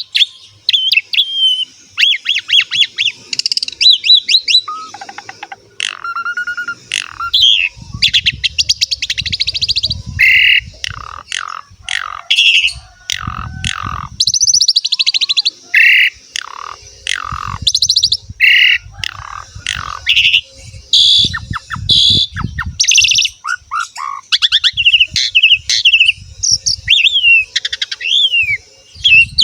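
Asian pied starling (jalak suren) in full song: a long, varied stream of whistles, rapid trills, glides and harsh chattering phrases, with short pauses between phrases.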